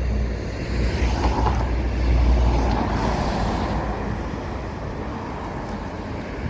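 Road traffic: a car passing by, its noise swelling to a peak a couple of seconds in and then fading, over a heavy low rumble.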